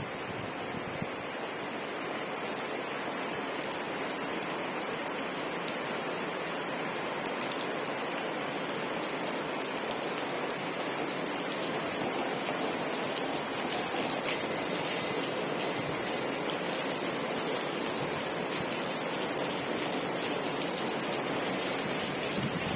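Steady rain falling: an even hiss of rain that grows slowly a little louder.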